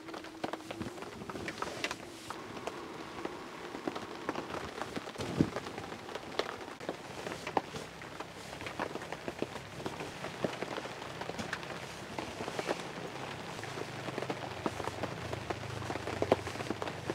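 Rain pattering, many irregular small taps over a steady hiss.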